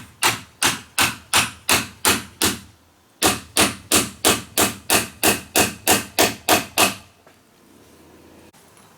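Hammer blows in a steady rhythm, about three a second: a run of about eight strikes, a short pause around three seconds in, then about a dozen more, stopping about seven seconds in.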